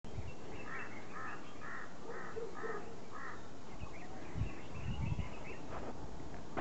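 A bird calling outdoors in a quick series of about six calls, roughly two a second, then fainter calls. Wind buffets the microphone in low thumps in the second half.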